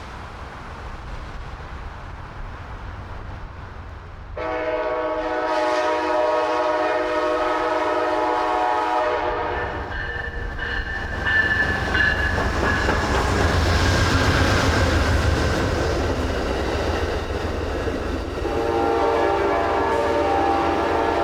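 Amtrak passenger train led by a Siemens ALC-42 Charger locomotive sounding its air horn in a long blast that starts suddenly about four seconds in, then the locomotives passing close with a heavy engine rumble and wheels on the rails, and the horn sounding again near the end.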